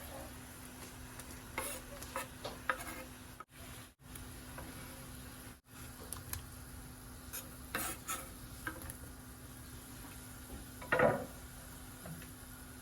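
A utensil stirring in a cooking pot: scattered short scrapes and clicks against the pot, the loudest about eleven seconds in.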